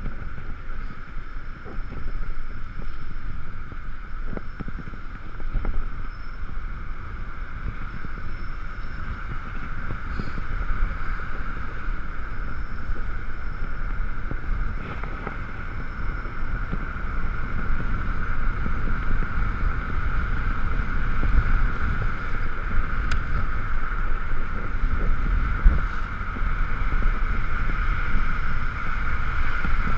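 Ekoway ML5000 electric scooter riding, heard from a mounted action camera: wind rumble on the microphone and road noise under a steady high whine that grows a little louder in the second half.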